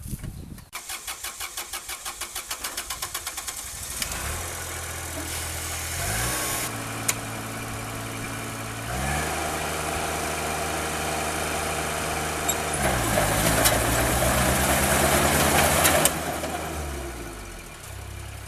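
Kubota DC-35 combine harvester's engine being started: the starter cranks it with quick, even pulses for about three seconds before it catches. It then runs and is revved up in steps, eases back, rises again and drops to idle near the end.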